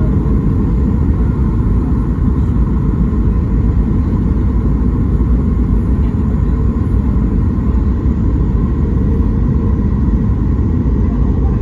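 Steady low cabin rumble inside a Boeing 737 MAX 8 in flight: the drone of its CFM LEAP-1B engines and airflow over the fuselage, heard from a rear window seat, with a faint steady tone running through it.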